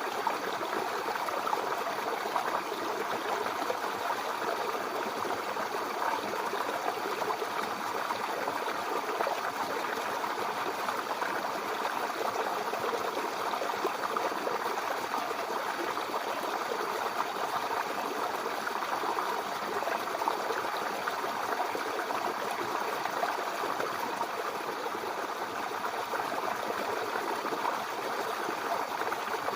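A babbling brook: shallow water running steadily over stones, a continuous gurgling and splashing with no change in level.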